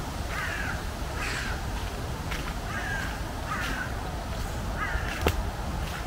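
A bird calling over and over: about five calls a little over a second apart, each sliding slightly down in pitch. A steady low rush runs beneath, and one sharp snap comes near the end.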